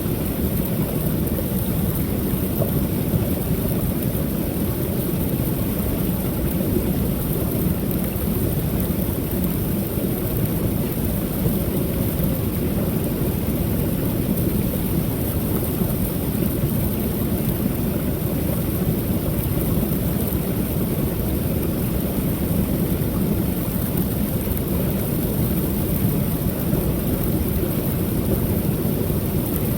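Creek water pouring over a small waterfall: a steady, low rushing without any breaks or changes.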